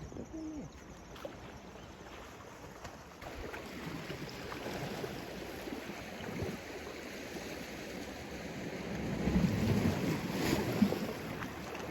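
Sea waves washing on the shore, with wind on the microphone; the wash swells louder near the end.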